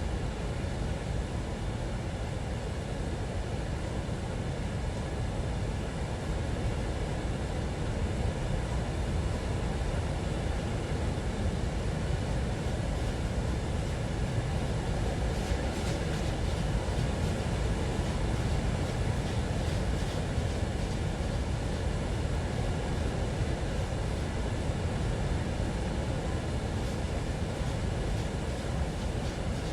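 Train running by: a steady, low rumble of locomotive and rolling cars, with a run of faint clicks about halfway through.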